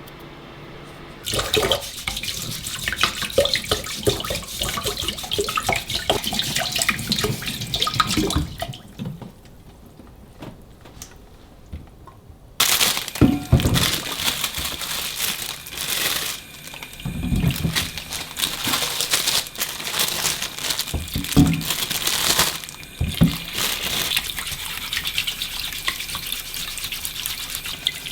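Kitchen tap running into a sink with water splashing. The flow stops for about four seconds partway through and then runs again, with a few dull knocks from things handled in the sink.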